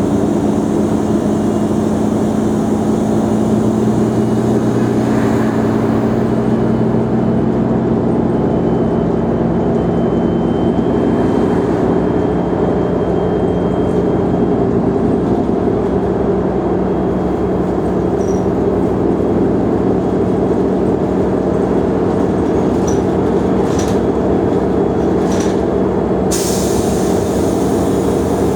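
Mercedes-Benz O345 Conecto G articulated city bus's diesel engine running steadily under way, its pitch shifting gently. Near the end come a few light clicks and a short hiss.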